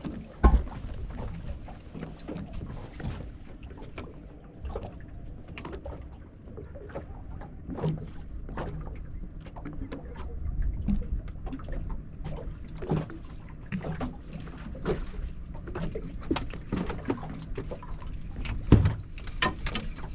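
Wind rumbling on the microphone in a small fishing boat, with scattered knocks and clicks from handling. There is a sharp thump about half a second in and another near the end.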